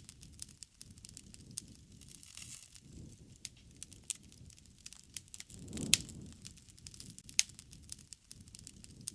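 Wood campfire burning: irregular sharp pops and crackles over the low rumble of the flames, with a louder pop and a swell of the flames about six seconds in.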